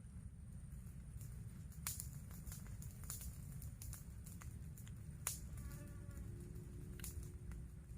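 A flying insect buzzing close by with a faint wavering whine, over a steady low rumble, with a few sharp clicks along the way.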